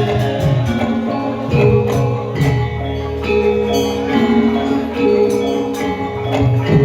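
Javanese gamelan music accompanying lengger dance: ringing metal mallet instruments holding and changing pitched notes over recurring low drum strokes.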